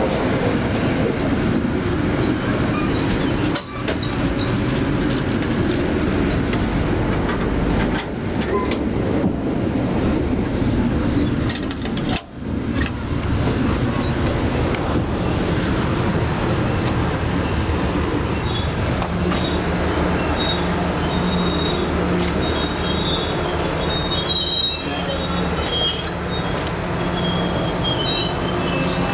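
Passenger train pulling into a station, heard from aboard a carriage: a steady rumble of wheels on rail. Thin high-pitched wheel squeals come in over the last third as it slows, and a low steady hum sets in about two-thirds of the way through.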